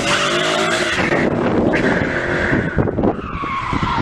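Car tyres screeching in a skid, over a running engine. The screech shifts in pitch and falls off near the end.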